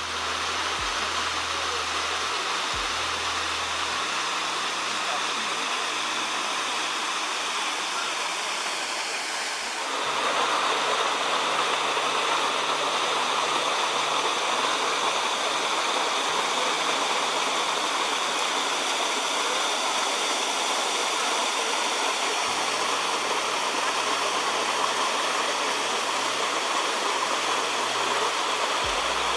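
Madison Falls, a waterfall, rushing with a steady roar of falling water that gets louder about ten seconds in.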